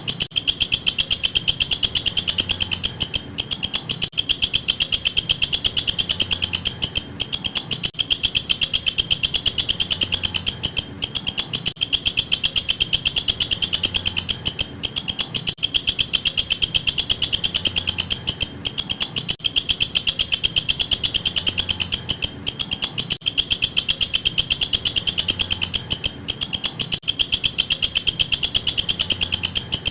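Walang kecek katydid singing: a loud, fast, even train of high, buzzy pulses, broken by brief pauses every few seconds.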